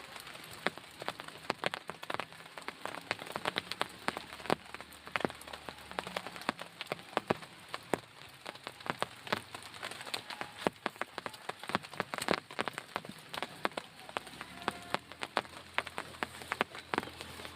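Rain falling steadily, with many individual drops ticking and pattering sharply and irregularly on a nearby surface such as a tent.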